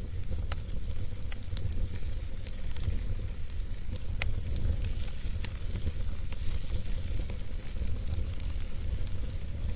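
Fire burning in a fireplace: irregular sharp crackles and pops over a steady low rumble and hiss.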